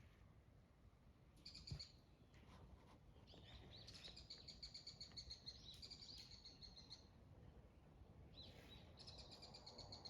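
Faint bird calls: a short call about a second and a half in, then a long run of rapid repeated high notes, and another short call near the end.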